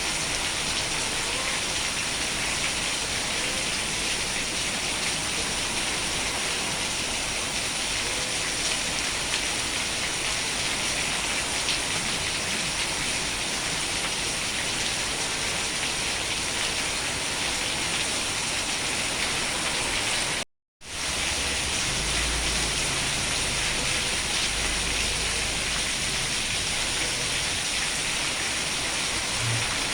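Steady rain falling, an even, dense hiss that cuts out to silence for a split second about two-thirds of the way through. A faint low rumble runs under the rain after the cut.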